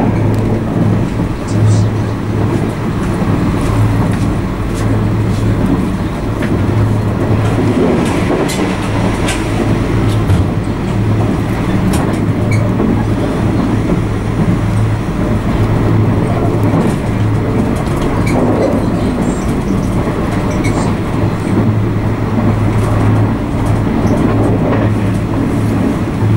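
Argo Anggrek passenger train in motion, heard from inside the coach: a steady rumble of wheels on the track under a constant low hum, with scattered sharp clicks.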